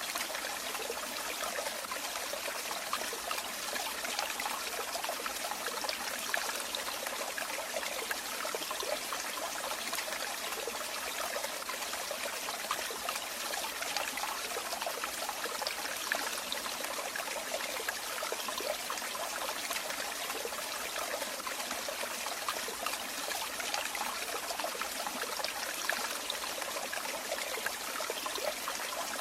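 Running water flowing steadily: an even wash of many small splashes, with little deep rumble.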